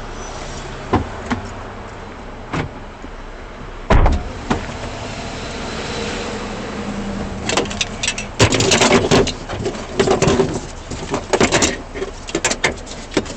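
Rustling and handling knocks on a body-worn camera's microphone over a steady vehicle hum. There are a few sharp knocks early, a heavy thump about four seconds in, and dense clattering and rubbing from about seven seconds on.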